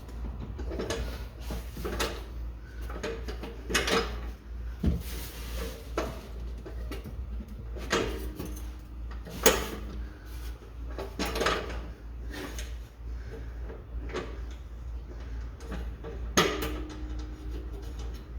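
Scattered metal clunks and scrapes, several with a short ringing tone after them, as the stock muffler of a 2017 Subaru WRX is worked loose from its rubber exhaust hangers.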